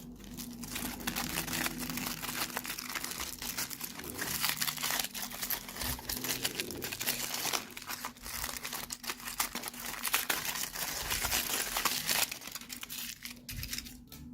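Crinkly plastic packaging being handled and opened: a dense run of crackling and rustling that eases briefly twice.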